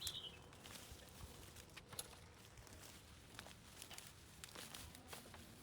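Near silence: faint scattered clicks and rustles over a low hiss, with a short high chirp at the very start and a sharper click about two seconds in.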